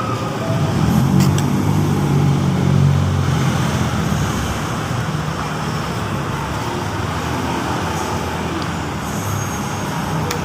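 Road traffic noise: a motor vehicle's engine rumbles close by, loudest in the first few seconds and then easing, over a steady hiss of passing traffic.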